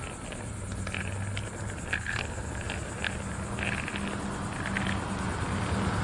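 Outdoor road noise from a moving bicycle: a steady low vehicle engine hum under a noisy rush of wind and tyres, with short high chirps scattered through it.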